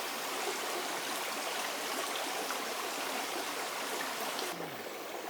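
Stream water flowing steadily, an even rushing and trickling. About four and a half seconds in the sound shifts to a softer, less hissy flow.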